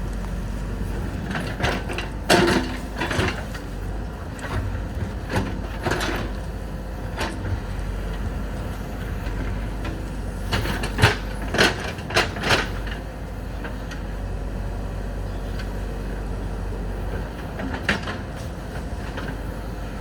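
JCB 3DX backhoe loader's diesel engine running steadily under work, with sharp clanks and scrapes of the digging bucket striking rock and soil in several clusters, the loudest about eleven to twelve and a half seconds in.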